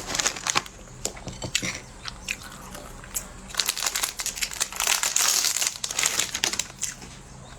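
Plastic food wrapper crinkling and rustling, with scattered small clicks. It turns to a dense, continuous crackle about three and a half seconds in that lasts some three seconds.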